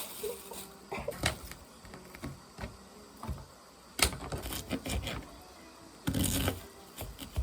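Kitchen handling sounds while cooking: scattered clicks and knocks of utensils and containers. A sharp click comes about four seconds in, and a short rustling clatter follows near six seconds.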